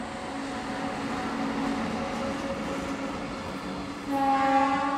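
Indian Railways train approaching at speed, its noise steadily building, with a loud locomotive horn blast starting about four seconds in and lasting about a second.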